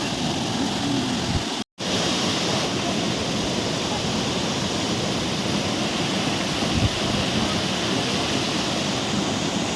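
Steady rushing noise with no clear tone or rhythm, broken by a moment of total silence a little under two seconds in.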